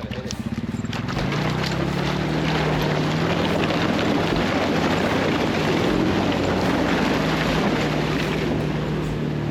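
A vehicle driving, its engine hum picking up about a second in and then holding steady under loud wind and tyre rush.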